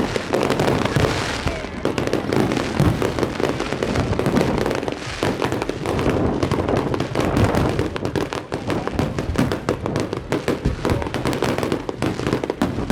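Fireworks and firecrackers going off in a dense, unbroken crackle of many overlapping bangs and pops.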